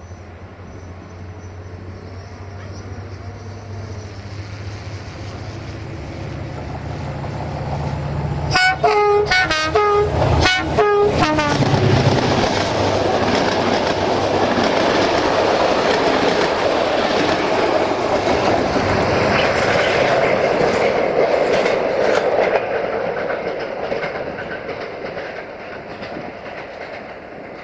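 Diesel-hauled passenger train approaching with a low engine drone. It sounds a series of short horn blasts about nine seconds in, then its coaches roll past with loud wheel-on-rail noise that fades away near the end.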